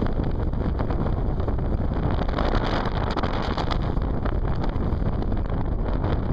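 Steady rushing wind noise buffeting the microphone, heaviest in the low end.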